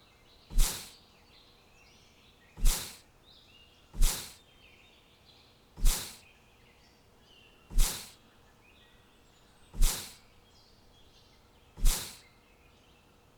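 Seven sharp knocks, about one every two seconds, each dying away quickly, over faint birds chirping.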